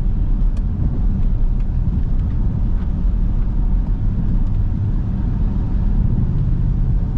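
Jeep Grand Cherokee SRT's V8 with a mid-muffler delete, a steady low rumble from inside the cabin while cruising, mixed with road and tyre noise. A few faint ticks sound over it.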